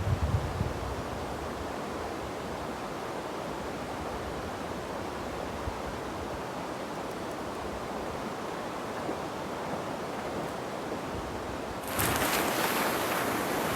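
Steady rushing of a swollen mountain river, with a few low wind thumps on the microphone at the start. A little before the end the rushing jumps suddenly louder and hissier.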